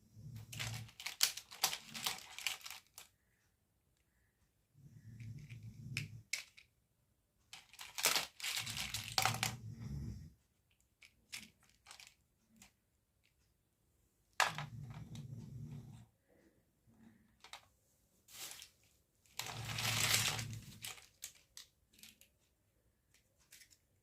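Packaging being crinkled and torn open by hand in bursts of a second or two, with sharp clicks and taps in between.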